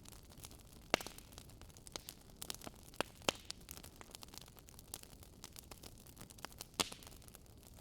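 Wood fire crackling over a soft steady hiss, with irregular sharp pops, a few louder ones standing out among many small snaps.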